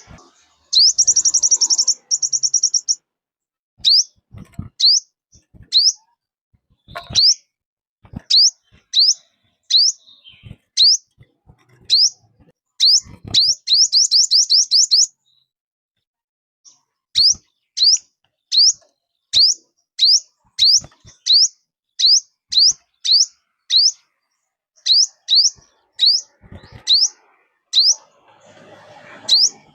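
A series of calls from the bird known in Vietnam as 'chim 5 màu', the kind of call played as a lure to trap wild birds. It is a string of short, high, falling whistled notes, roughly one or two a second, broken twice by a quick rapid trill. A few sharp clicks are scattered among them.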